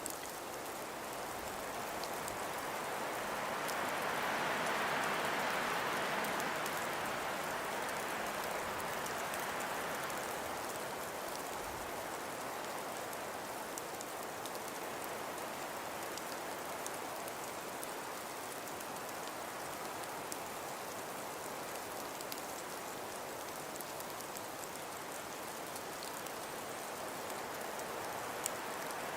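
Snowstorm ambience: a steady hiss of wind and blowing snow that swells in a gust about five seconds in, with faint fine ticking of snow grains.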